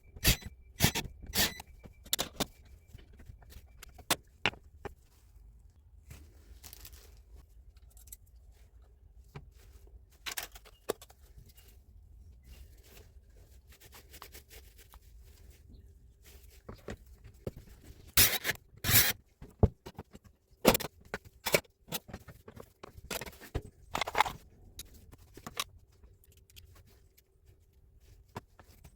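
Irregular clicks, knocks and scrapes of metal parts and hand tools being handled while a Hilti TE76 rotary hammer is stripped and serviced. The busiest, loudest handling comes about two-thirds of the way through.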